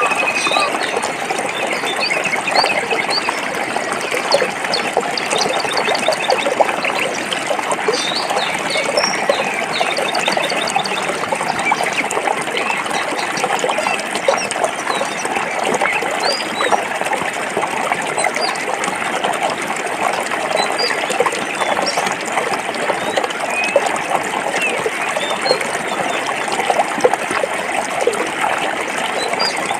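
Stream water flowing and splashing over rocks, steady throughout, with small birds chirping and trilling now and then above it.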